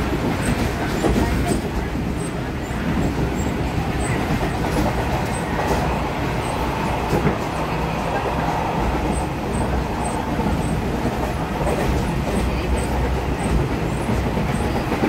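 Train running steadily along the track, heard from the front of the train: an even rumble of wheels on rails and running gear, with a few faint clicks here and there.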